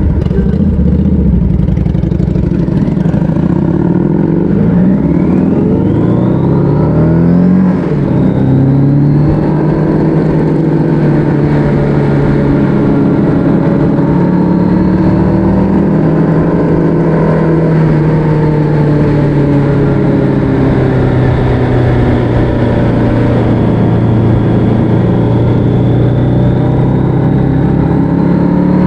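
Motorcycle engine under way, pulling with its pitch rising for several seconds, then dropping at a gear change about eight seconds in, and running steadily at cruising speed with small rises and falls.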